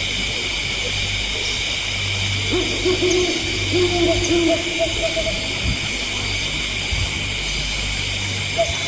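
Owl-like hooting: wavering drawn-out notes, strongest about two and a half to four and a half seconds in and again near the end, over a steady high hiss and a low hum.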